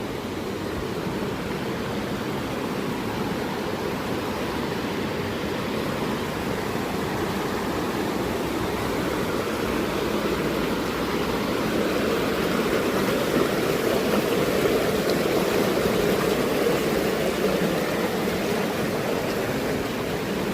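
Rushing water of a mountain stream, a steady rush that grows somewhat louder around the middle.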